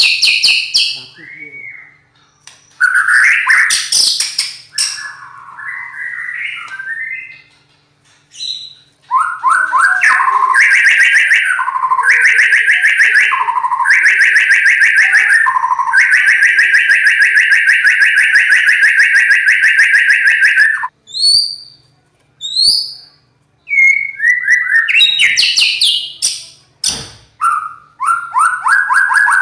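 White-rumped shama (murai batu) singing a loud, harsh-toned song of varied whistled phrases. In the middle comes a long run of rapid repeated notes lasting about twelve seconds, followed by short sharp chips and more whistled phrases.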